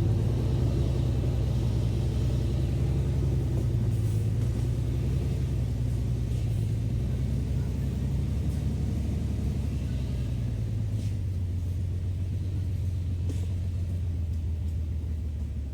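Small truck engine running steadily with a low rumble, slowly growing fainter.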